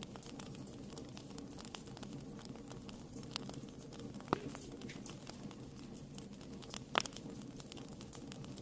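Wood fire in a fireplace crackling: a steady low rush of flame with a scatter of small snaps and two louder pops, a little past four seconds and about seven seconds in.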